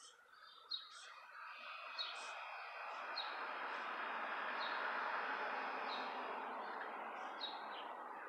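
Small birds chirping in short high calls, one every second or so, over a broad rushing noise that builds for a few seconds and eases off near the end.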